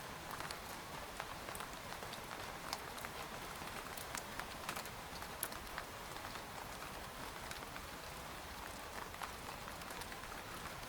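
Steady rain falling on a tent, with a soft, even hiss and many separate drops ticking irregularly on the fabric.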